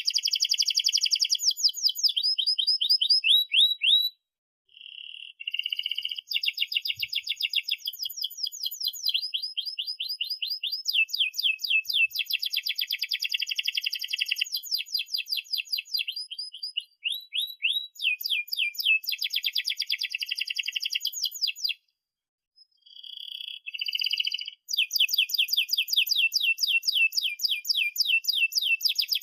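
Domestic canary singing long rolling phrases of fast, rapidly repeated trilled notes. The song breaks off briefly about four seconds in and again about three quarters of the way through.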